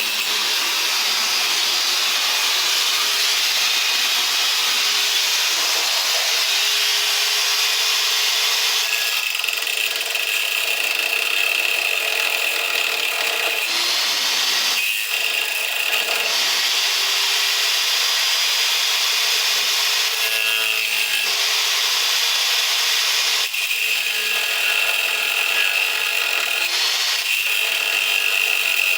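A power tool running under load: a steady high whine over grinding, rasping noise that eases and bites again several times.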